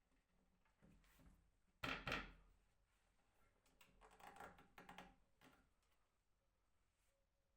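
Knocks from wood being handled: one sharp knock about two seconds in, then a run of lighter clicks and knocks a couple of seconds later.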